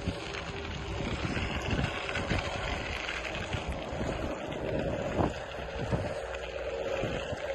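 Wind buffeting the microphone, with uneven low rumbling gusts over a steady rush and a faint steady hum.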